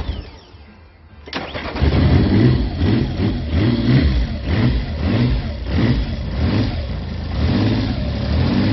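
Triumph X75 Hurricane's 740cc pushrod three-cylinder engine cold-starting on the choke. It cranks, catches about a second and a half in, and runs unevenly with repeated surges before settling toward a steadier fast idle near the end.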